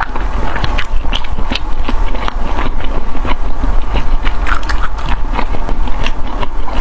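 Close-miked eating: a person biting and chewing food, a dense run of short clicks and smacks that goes on without a break.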